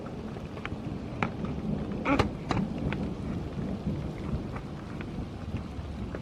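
Steady rain with a low rumble of thunder, and scattered sharp ticks of drops landing close by, the loudest cluster about two seconds in.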